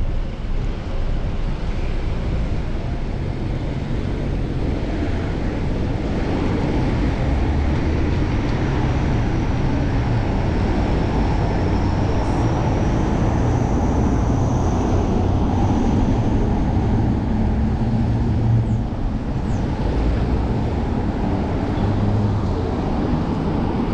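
Steady rush of wind buffeting and road noise from a bicycle ridden through city traffic, picked up by a chest-mounted GoPro action camera. A faint high whine rises and falls near the middle.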